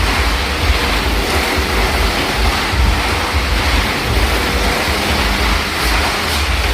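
Motorcycle engines running hard in a steady, loud rush of noise with a pulsing low end.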